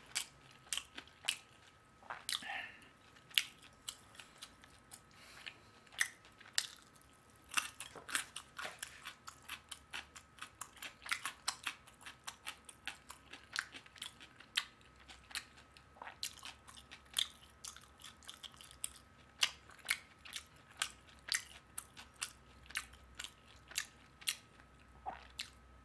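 Close-miked chewing of a mouthful of fried chicken: irregular wet mouth clicks and smacks, about two or three a second.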